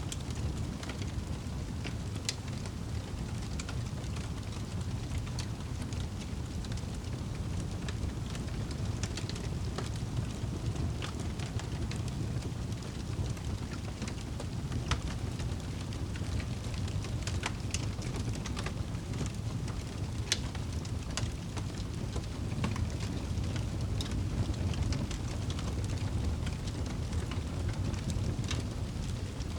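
Fire crackling in a fireplace: a steady low rumble of the flames with scattered sharp pops and snaps, two louder pops around the middle.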